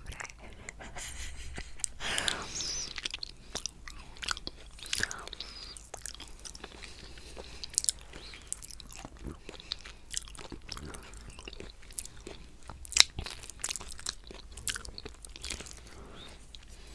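Close-miked mouth sounds of someone eating coconut cheesecake: chewing with wet clicks and smacks at irregular intervals, one sharper click about thirteen seconds in.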